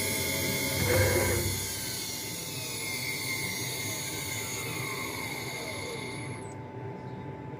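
CNC engraving router's spindle whine sliding down in pitch as the spindle winds down at the end of machining a brass plate; the high whine dies away near the end.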